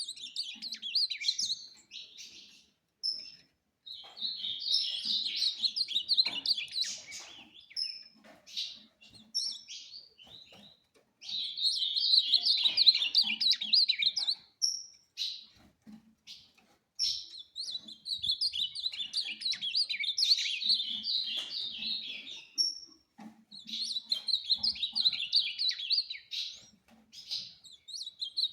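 Ultramarine grosbeak (azulão) singing: fast, dense warbled phrases a few seconds long, repeated five or six times with short pauses, and single high chip notes in the gaps.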